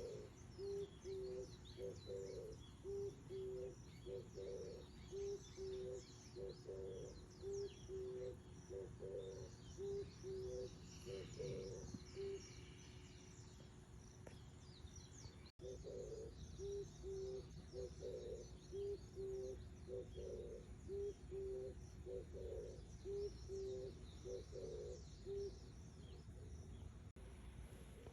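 Animal calls: a low call repeated in quick, even runs of about three short notes a second, with thin high chirping above it.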